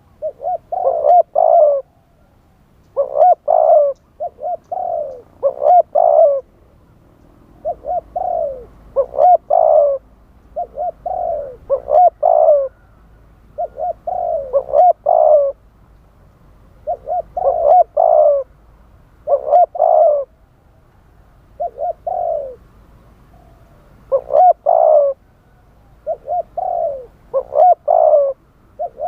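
Spotted dove cooing: short phrases of several low, rolling coos, repeated about every one to two seconds with brief pauses between them.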